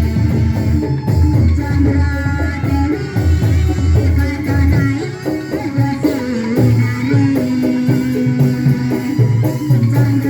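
Live band music with a steady drum beat under held, wavering melody lines, played continuously.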